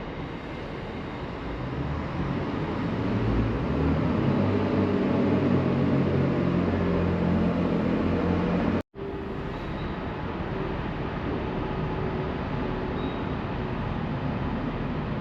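Train running past, its engine or motor note with several steady pitched bands growing louder over several seconds. The sound cuts off abruptly about nine seconds in and comes back as a quieter, steadier rumble.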